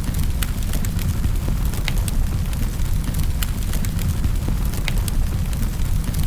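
Wood fire crackling in a fireplace: irregular sharp snaps and pops, a few a second, over a steady low rumble.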